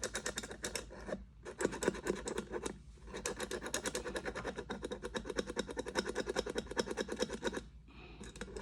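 Rapid back-and-forth scraping, many quick strokes a second, as a part of an electric kettle is cleaned, likely its electrical contacts. It comes in three runs, with short pauses about a second in and just under three seconds in, and stops shortly before the end.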